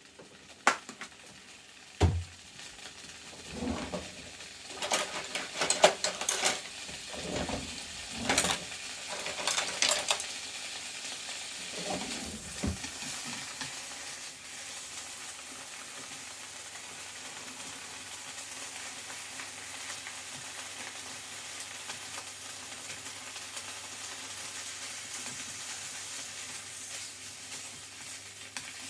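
Maitake mushrooms frying in butter in a pan: a string of knocks and scrapes from a utensil stirring them during the first dozen seconds, then a steady sizzle.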